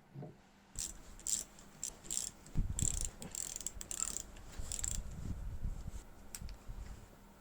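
Hand-tool work on metal engine parts: irregular bursts of clicking and scraping, with a few low knocks in the middle.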